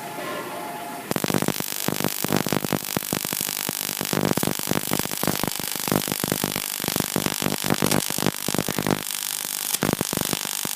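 Arc welding aluminium plate with an aluminium rod on a MASTERWELD ACDC 200 welder. The arc starts about a second in and then gives a loud, dense, irregular crackle.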